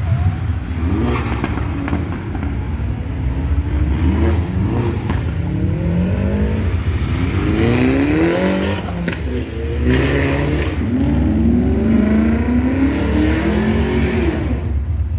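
Car engine revving hard over and over, its pitch climbing in a run of rises about a second long each, over a steady low rumble.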